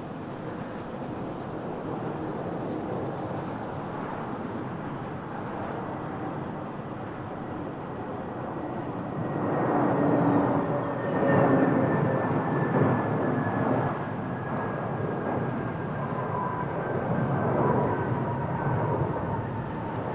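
Airbus A321-251NX jet's CFM LEAP-1A engines passing on landing approach: a steady jet rumble that grows louder about halfway through, with a high whine slowly falling in pitch as it goes by.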